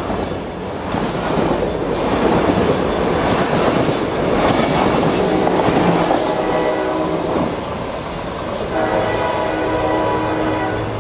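Passenger train passing close by, its wheels clattering over the rail joints, with a steady chord of tones sounding near the end.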